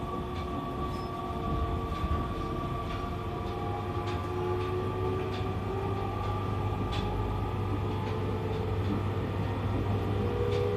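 E501 series electric train running between stations, heard from inside the car: a steady rumble with a motor whine whose tones slowly rise in pitch, and scattered short clicks from the wheels.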